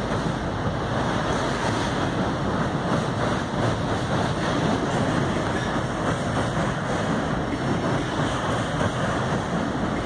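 Freight train of double-stack container cars rolling steadily across a steel truss bridge: a continuous, even noise of wheels on rails.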